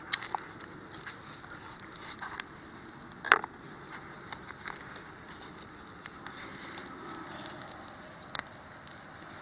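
Wood fire crackling, with scattered sharp pops over a faint steady hiss; the loudest pop comes about three seconds in.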